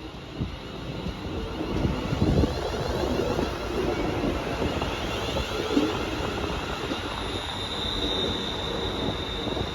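Class 380 Siemens Desiro electric multiple unit running into the platform, its wheels and running gear rumbling louder as it draws in. A high steady squeal joins about three quarters of the way through.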